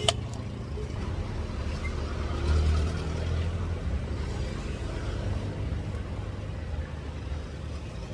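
Steady low rumble of road traffic, swelling briefly about two and a half seconds in, with a single sharp click right at the start.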